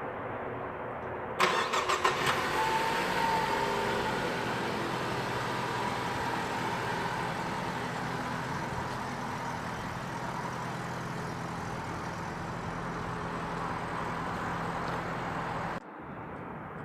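2013 Ford Focus four-cylinder engine cold-started: a short crank with a few clicks about a second and a half in, catching at once and settling into a steady idle. The sound stops abruptly near the end.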